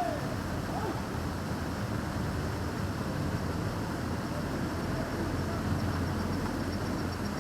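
Fountain water splashing steadily in a busy town square, under a low rumble of passing traffic. A faint rapid ticking comes in near the end.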